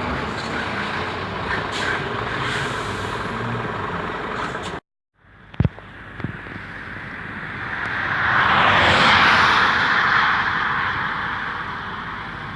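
Road traffic noise from passing vehicles. The sound cuts out briefly about five seconds in, then after two sharp knocks a heavy truck approaches and passes, loudest around nine seconds in and fading away.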